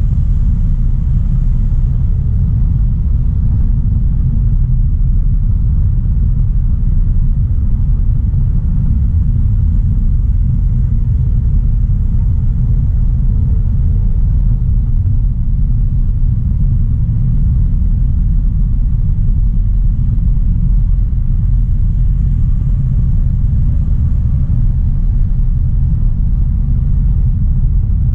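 Steady low rumble of a 2016 Audi A3 Sportback 1.4 TFSI on the move, with the turbocharged four-cylinder petrol engine humming faintly under road noise at an even pace.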